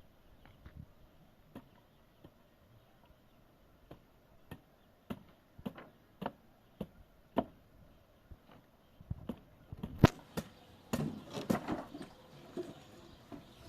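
Sharp knocks of a tool striking wood: an even series about every half second, then a louder, busier run of knocking and clatter near the end.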